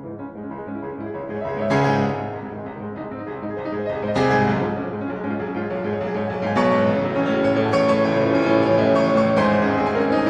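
Piano music: chords struck and left to ring, getting louder through the passage.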